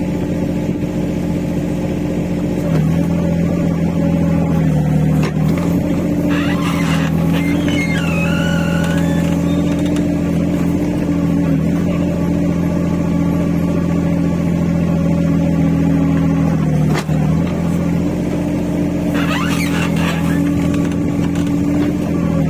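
Rippa R15 mini excavator's engine running steadily while the boom squeaks, with wavering squeals about six to nine seconds in and again near the end: a dry, squeaking boom joint.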